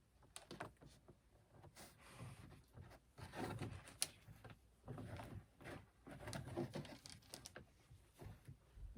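Faint hand-handling noises as paracord is worked into a knot: scattered soft rustles and small clicks, with one sharper click about four seconds in.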